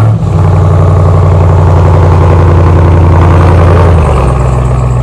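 Straight-piped supercharged 6.2 L V8 of a 2021 Ram TRX running loud and steady at a fast idle just after start-up. It drops to a lower idle about four seconds in.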